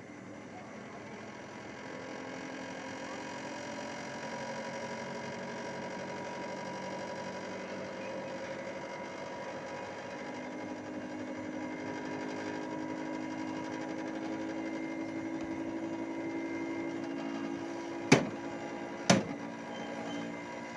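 Hitachi 1-ton split air conditioner's outdoor unit running with a steady hum of several tones, a lower tone joining about ten seconds in. Two sharp knocks come about a second apart near the end.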